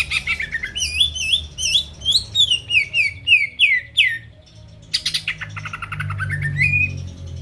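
Cucak ijo (green leafbird) singing: a rapid trill, then a run of looping whistled notes, then another rapid trill that ends in a rising whistle. A steady low hum runs underneath.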